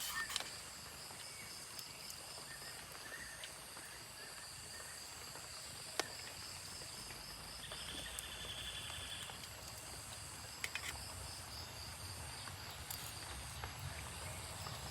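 Insects chirring in a steady, high, pulsing chorus, with another insect's buzzy trill about eight seconds in. A few sharp clicks stand out, one about six seconds in.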